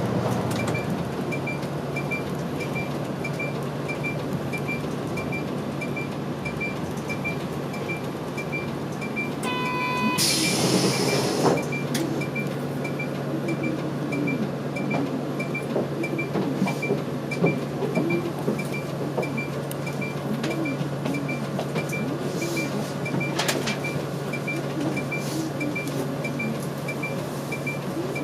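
A diesel route bus's engine runs steadily while the turn-signal relay ticks evenly, about one and a half ticks a second. About ten seconds in, a short beep sounds, followed by a sharp hiss of released air from the air brakes.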